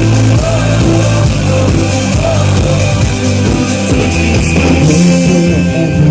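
Rock band playing live and loud through a PA, with guitar and held bass notes over a steady beat.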